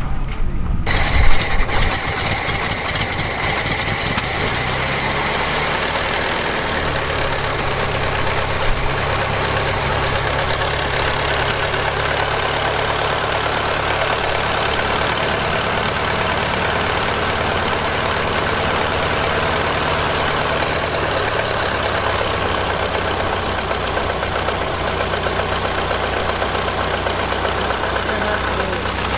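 An engine running steadily, its note rising from about four to seven seconds in as it picks up speed, then holding even.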